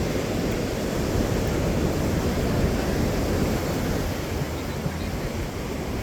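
Steady rushing noise of surf on the beach, mixed with wind buffeting the microphone as a low, uneven rumble.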